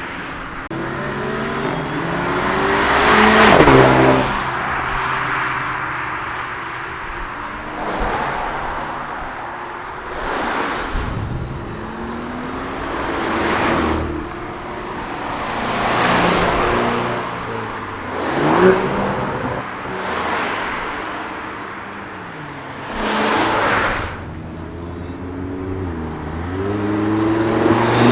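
A string of cars driving past one after another, about eight in all, their engines revving up under acceleration and the note dropping as each goes by; the loudest passes come a few seconds in and past the middle.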